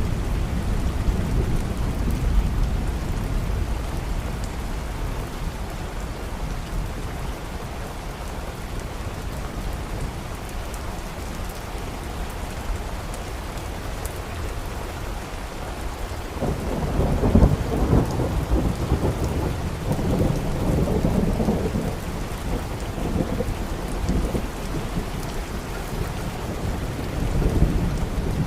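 Steady rain with low rumbling thunder. A louder roll of thunder starts a little past halfway and rumbles on for several seconds.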